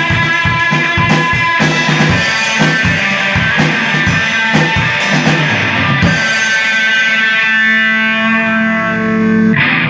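Live rock band with electric guitar through effects, played over a drum kit. The drums stop about six seconds in, and a held guitar chord rings on until the music cuts off sharply near the end.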